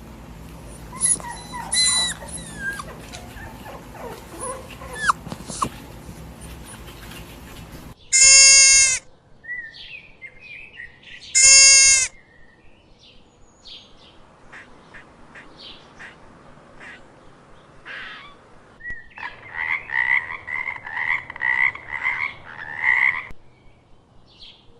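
A series of animal calls from different creatures in turn: faint high chirps at first, then two loud, steady pitched calls about three seconds apart, and a run of quick repeated calls near the end.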